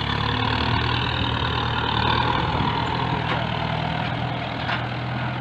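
Farm tractor engine running steadily at an even pitch, a constant low hum.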